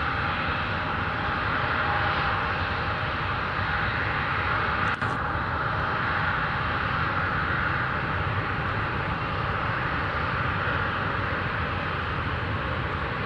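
Jet airliner engines running steadily at low power: an even rushing noise with a constant whine. A single sharp click about five seconds in.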